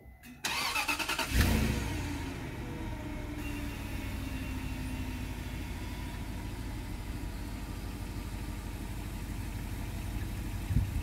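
Range Rover L322 V8 engine cranked by the starter for under a second, catching with a brief rev flare, then settling into a steady idle.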